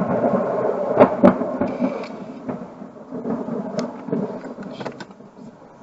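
Thunder from a nearby lightning strike: it breaks in suddenly with two sharp cracks about a second in, then rumbles on with scattered crackles and fades out.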